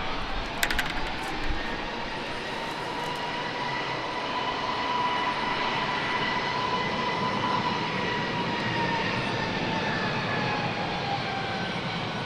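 Airbus A321 jet engines whining as the airliner lands and rolls out along the runway, the whine rising slowly, holding, then falling away near the end over a steady rush of engine noise.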